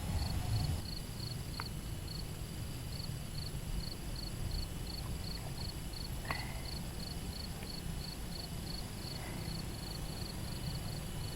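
An insect, cricket-like, chirping in a steady high-pitched rhythm, about two to three chirps a second, over a low outdoor rumble, with a couple of sharp clicks.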